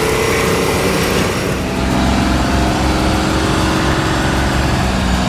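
Tatra logging truck's diesel engine running steadily as the truck drives along a snow-covered road.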